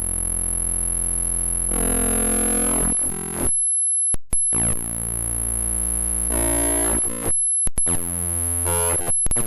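Computer icon files played back as raw audio data: a harsh, buzzy drone of stacked tones under a steady high whistle. The pattern changes abruptly from one file section to the next, cuts out suddenly about 3.5 s in, and clicks back in a moment later. A brief dropout comes about 7.5 s in, and choppier stuttering fragments follow near the end.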